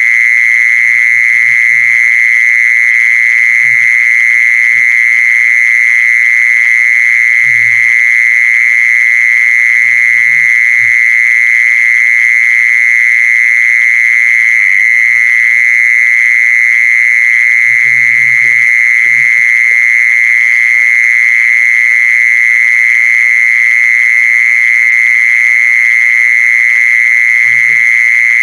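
Continuous, loud, high buzzing call of the insect known in Thai as jee-son (แมงจีซอน), holding one steady pitch without a break.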